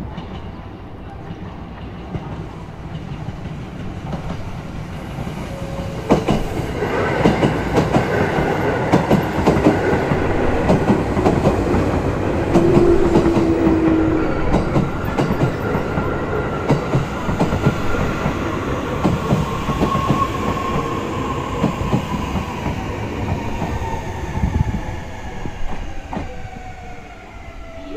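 JR Kyushu Series 811 electric commuter train running past close by, its wheels clacking over the rail joints, getting louder about six seconds in. A whine from the train slowly falls in pitch as it slows.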